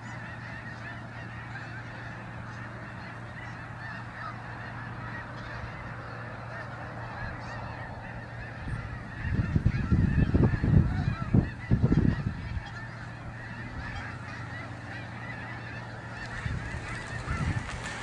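A large flock of snow geese honking continuously, many calls overlapping into a steady chatter. A loud low rumbling noise covers it for about three seconds from about nine seconds in, with a shorter, weaker one near the end.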